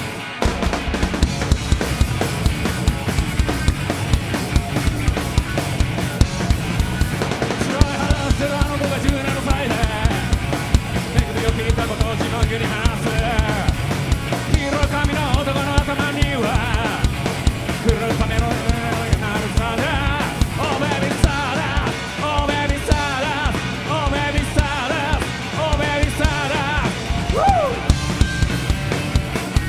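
Live rock band playing an instrumental passage: a fast, driving drum kit with distorted guitars and bass, the full band kicking in at once. A wavering lead melody joins about eight seconds in.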